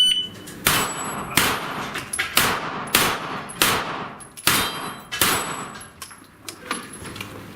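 A string of pistol-calibre gunshots, about one every three-quarters of a second, fired at steel targets. Several shots are followed by the high ring of a steel plate being hit.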